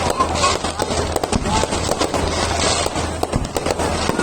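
Fireworks going off in a dense, continuous run of sharp bangs and crackles.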